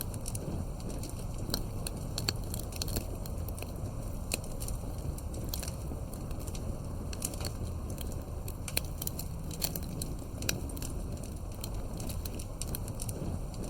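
Wood fire crackling and popping, with sharp irregular snaps over a steady low rumble of the burning fire.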